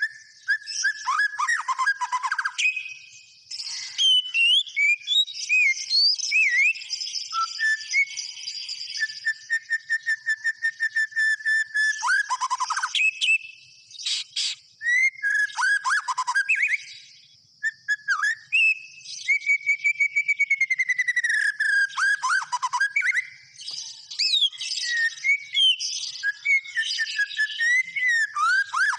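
White-rumped shama (murai batu) singing in full, prolific song: a varied, nearly continuous stream of clear whistles, sweeping glides and rapid trills, broken by brief pauses.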